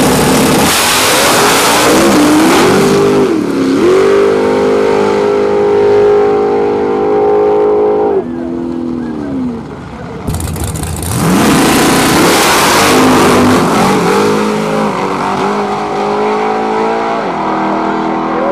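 Drag race car engines at high revs: revved, held at a steady high pitch for several seconds, then falling away. About ten seconds in the sound cuts abruptly to another car revving up and running hard.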